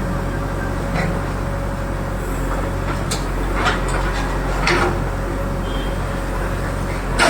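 Diesel engine of an earthmoving machine running steadily, with several short metallic clanks and knocks along the way, the last and loudest near the end.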